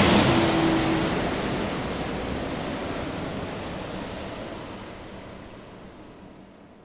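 Airplane engine noise fading steadily away, the high hiss dying first, leaving only a faint low rumble near the end.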